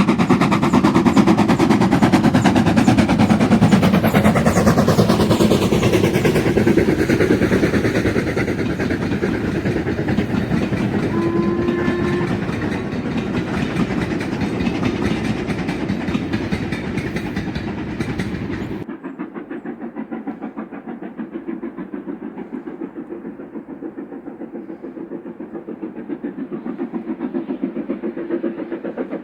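Steam train hauled by an LMS Black Five locomotive running past, with fast rhythmic chuffing and wheel clatter and a brief whistle note near the middle. About two-thirds through, the sound cuts abruptly to a quieter, duller stretch of the same running train.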